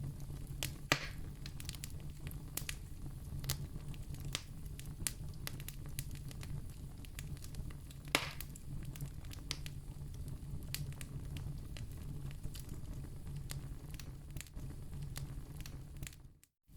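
Campfire crackling: a steady low rumble of burning with scattered sharp pops, two of them louder, about a second in and about eight seconds in. The sound drops out for a moment just before the end.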